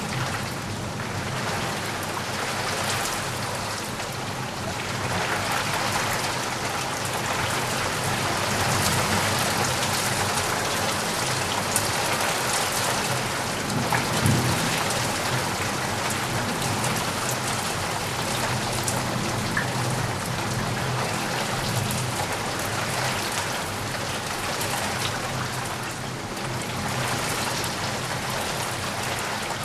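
Steady heavy rain falling and pattering on surfaces, with a brief low rumble of thunder about halfway through.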